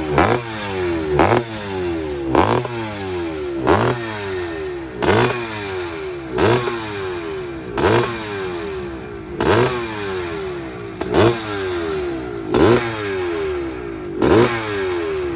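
Motocross dirt bikes revving their engines on the start line, with sharp throttle blips about every second or so, each rise in pitch falling back before the next.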